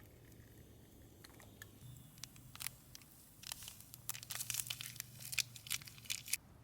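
Irregular dry crackling and crinkling, like brittle material being crumpled or snapped by hand, sparse at first and thickening into a dense run of sharp crackles from about halfway through before stopping shortly before the end.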